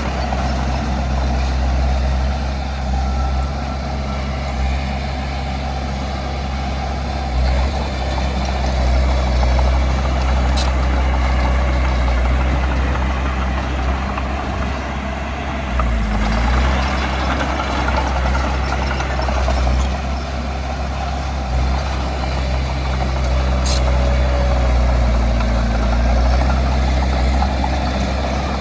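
Diesel engine of heavy earthmoving machinery running steadily with a deep, even hum, rising and dipping slightly in level as the machine works.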